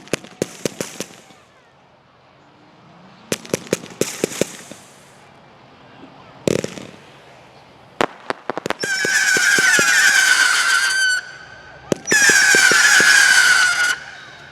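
Consumer fireworks going off: scattered sharp pops and bangs, then two long, shrill wavering whistles about two seconds each in the second half, the loudest part.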